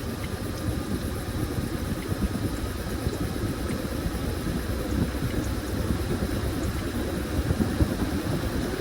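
Washing machine running a load of towels: a steady rumble of the turning drum, with a faint constant whine above it.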